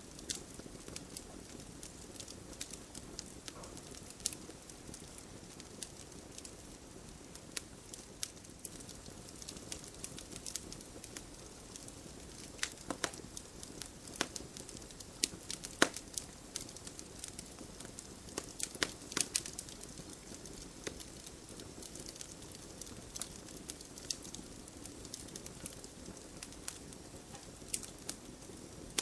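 Wood campfire crackling, with irregular sharp pops and snaps, some louder than others, over the low steady rush of the flames.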